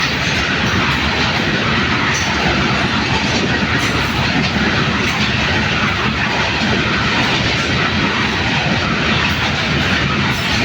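Freight train wagons rolling past close by, a loud, steady rumble and rattle of wheels on the track.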